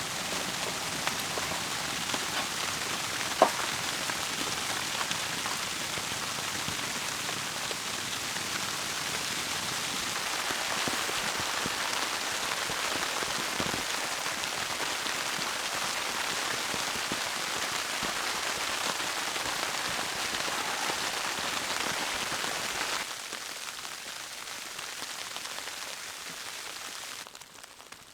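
Steady hiss and patter of falling precipitation, with a sharp tick about three seconds in. The sound drops away sharply about 23 seconds in and again near the end.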